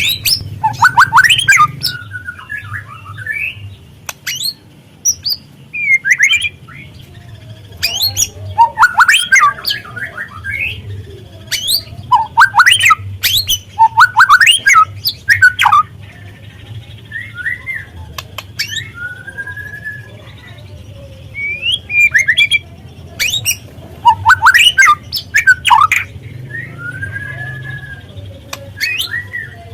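White-rumped shama calling: repeated bursts of rapid, harsh, scratchy chattering notes every few seconds, with a few short arched whistles in the gaps between them. This is a lure recording used to rouse young shamas to sing.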